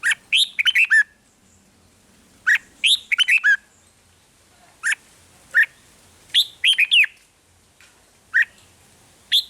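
Red-whiskered bulbul singing: short bursts of four or five quick, slurred whistled notes every few seconds, with single notes in between.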